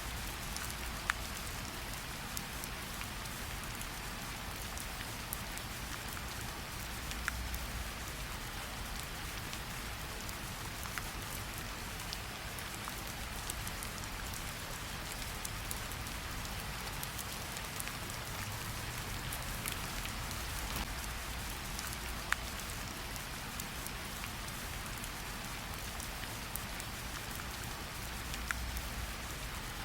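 Gentle steady rain pattering on tree leaves, with scattered louder single drops dripping off the leaves.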